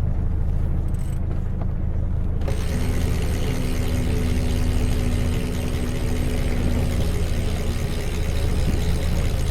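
Sun Odyssey 410 sailing yacht's inboard engine running steadily at low revs while motoring. About two and a half seconds in, a hiss abruptly joins it, with a steady hum for a few seconds.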